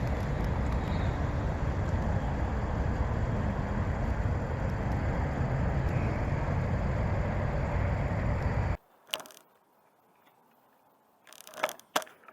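Steady wind rumble on the microphone while riding a bicycle, cutting off suddenly about nine seconds in and leaving a few faint clicks and knocks.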